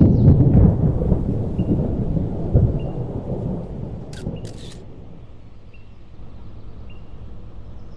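Deep rumble of thunder, loudest at the start and fading away over about five seconds, with a couple of sharp clicks about four seconds in.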